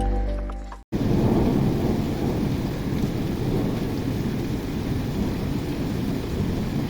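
Heavy rain falling steadily, with a continuous low rumble of thunder under it. A music track fades and cuts off just before a second in, when the storm sound begins.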